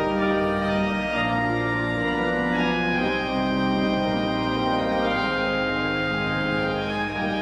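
Church organ playing the postlude at the close of a service: full, sustained chords that change about once a second.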